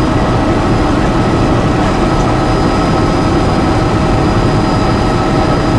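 Helicopter in flight: a loud, steady drone of engine and rotors, with a few constant whining tones above it.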